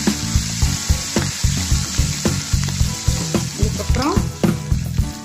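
Hot oil sizzling and spattering in a stainless steel kadai as chopped green chillies and ginger fry in a mustard-seed tempering, with a steel spoon stirring and knocking against the pan about twice a second.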